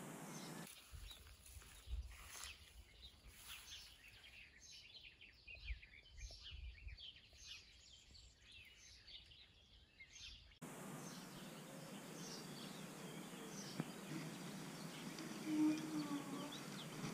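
Outdoor ambience with many short bird chirps over a faint background hiss. The hiss drops out abruptly after under a second and comes back abruptly about ten seconds in.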